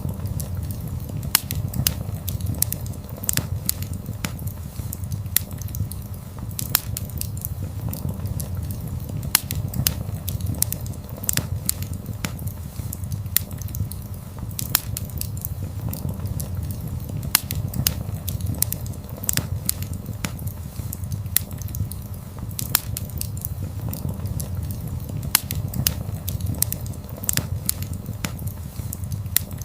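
Wood fire burning: a steady low rumble of flames with frequent sharp, irregular crackles and pops from the burning logs.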